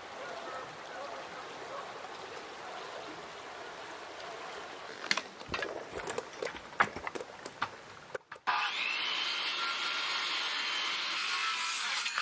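Sawmill cutting green spruce: a run of sharp knocks and clattering a few seconds in, then, after a short break, the saw running steadily with a whine as it cuts.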